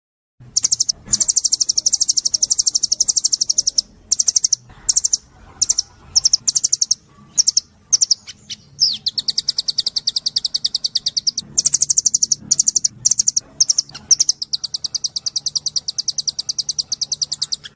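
Small songbird singing a high-pitched trill of fast repeated notes, in long runs broken by short choppy bursts and brief pauses.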